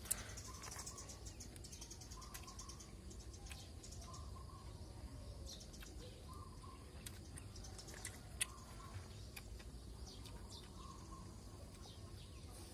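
A bird repeats a short call about once a second over a steady low outdoor rumble. Scattered clicks and rustles come from food wrapping being handled, with a sharp click right at the start and another about eight seconds in.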